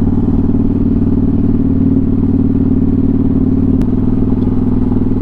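Motorcycle engine running steadily while being ridden, heard from on the bike. A short click comes a little under four seconds in, and the engine note shifts.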